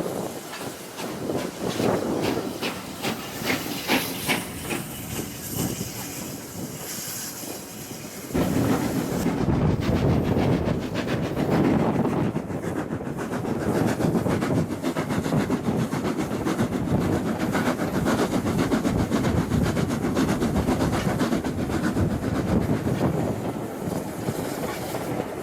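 Steam train running on the rails, with the clickety-clack of the wheels and a hiss of steam. About eight seconds in, the sound turns suddenly louder and deeper.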